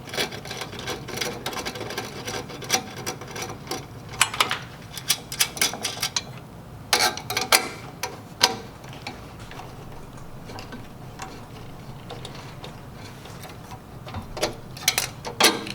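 Hand tool backing 5/16-inch nuts off the transformer studs of a sandwich grill and the transformer being lifted out: a run of small metal ticks and clicks, a few louder knocks about seven to eight seconds in, a quieter stretch, then more clicks near the end.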